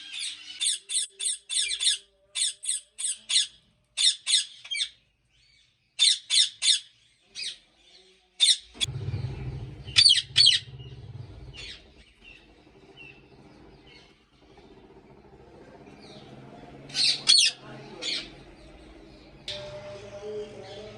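Ringneck parakeets squawking: many short, harsh, high-pitched calls in quick runs, thinning out after about eight seconds. A low steady hum comes in about nine seconds in.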